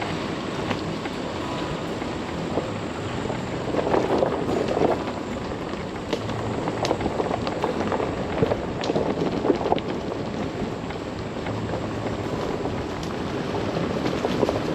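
Chevy Colorado ZR2 pickup driving slowly over a rough trail: steady tyre noise with scattered clicks and rattles over a low engine hum, louder for a stretch about four seconds in and again around eight seconds in.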